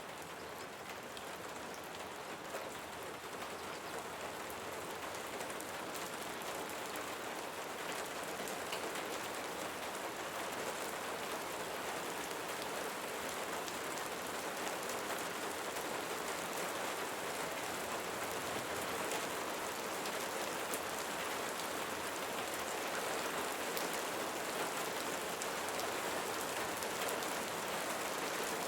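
Steady rainfall, with scattered sharp drop ticks. It comes up out of silence at the very start and grows slowly louder.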